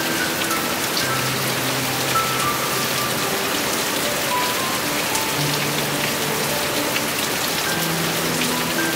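Heavy rain falling steadily, a dense hiss with individual drops ticking on surfaces. Soft music with slow held notes plays underneath.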